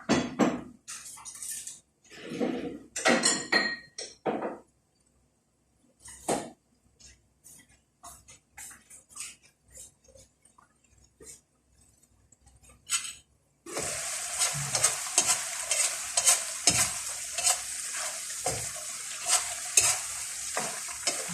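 Utensil stirring and scraping food in a cooking pan, with clinks of metal on the pan. About two-thirds of the way through, a steady hiss with fine crackles starts suddenly and keeps going.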